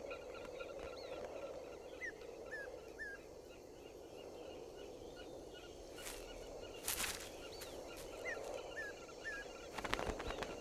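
A bird calling outdoors: short chirps, each rising then dropping, in two quick runs of three, over a steady background hiss. Brief rustling bursts come about six and seven seconds in and again near the end.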